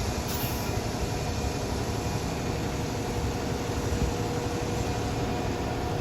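Golf cart riding along: a steady low rumble of the cart and its tyres running over the road, with a faint steady hum.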